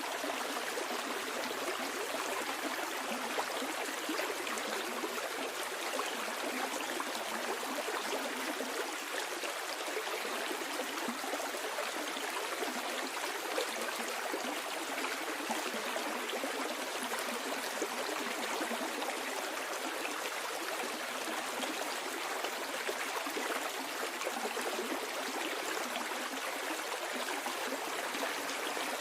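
Stream water flowing and burbling over stones, a steady even rush with a fine trickling texture.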